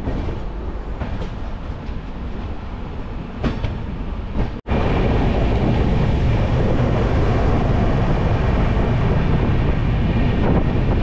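Running noise of a moving passenger train heard from an open coach doorway: wheels rumbling and clacking over the rails. About halfway through it cuts out for a moment and comes back louder and steadier.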